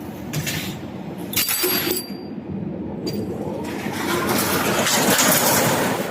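Machinery on a PVC window-profile production line running steadily, with short bursts of hiss about half a second and a second and a half in, and a longer, louder hiss from about four seconds in until near the end.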